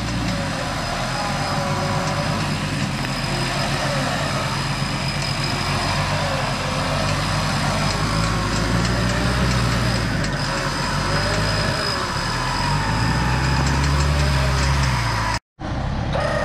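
A 4x4 off-roader's engine running under load, its revs rising and falling several times as it crawls over a rough trail. The sound cuts out for a moment near the end.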